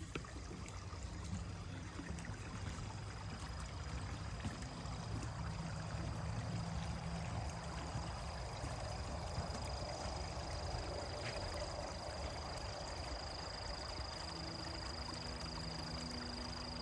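Spring-fed stream water trickling and gurgling steadily where it wells up out of the ground. A thin, steady, high-pitched insect drone sounds over it, growing stronger in the second half.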